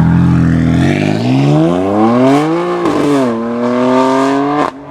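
A modified BMW M car's engine under hard acceleration: the revs climb steeply from about a second in, dip briefly at an upshift around three seconds, climb again, then drop off sharply near the end.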